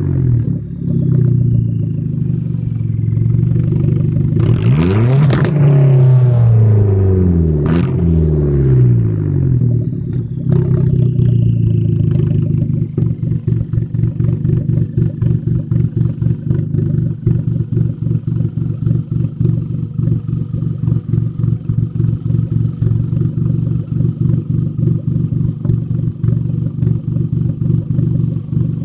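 Hyundai Genesis Coupe exhaust through dual 4-inch straight pipes, revved up and down several times, then settling about 12 seconds in into a steady, pulsing idle.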